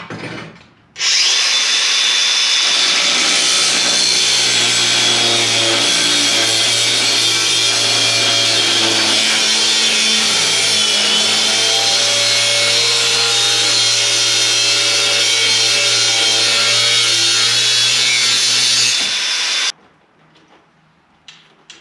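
Battery-powered cutoff tool spinning an abrasive cutoff wheel through steel plate, running steadily with a high hiss over the motor's whine. It starts about a second in and stops shortly before the end.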